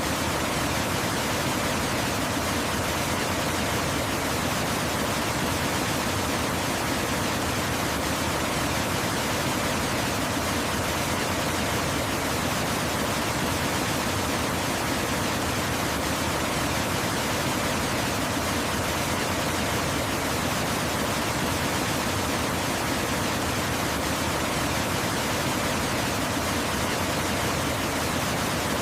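Waterfall: a steady rush of falling water, an even hiss spread from deep to high pitches, unchanging throughout.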